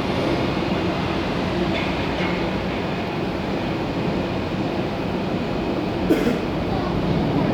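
Airbus A320 jet engines at takeoff power, a steady loud rumble with a faint whine. There is one short click about six seconds in.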